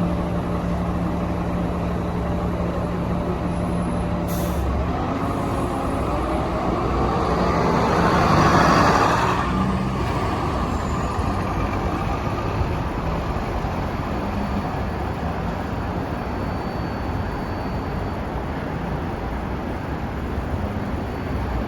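City transit bus running and passing close, its engine and road noise swelling to a peak about eight to nine seconds in, then fading. A short sharp hiss comes about four seconds in.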